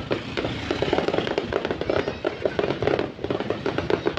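Aerial fireworks going off in a dense, rapid crackle of many small overlapping bursts.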